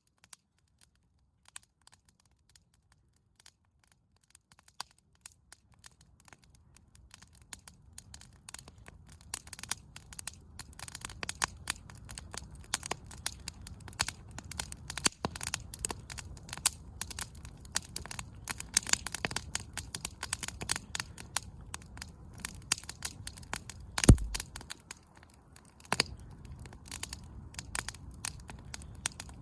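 Wood campfire crackling and popping: scattered snaps at first, building after a few seconds into dense, irregular crackling over a low rumble, with one sharp, loud pop about 24 seconds in.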